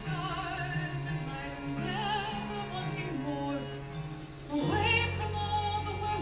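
Musical-theatre song played by a small ensemble of piano, guitar, bass, drums, violins and cello, with a sustained melody line sung or bowed with vibrato. About four and a half seconds in the melody sweeps upward and a low bass note comes in and holds.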